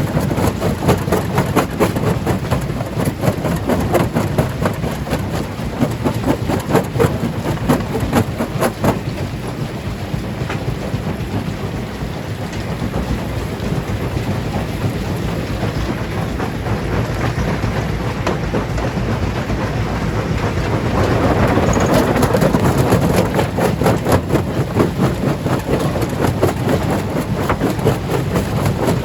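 Stone crusher working on rock: a dense, continuous clatter and knocking of stones being broken over the heavy rumble of the machine, swelling louder for a few seconds about three quarters of the way through.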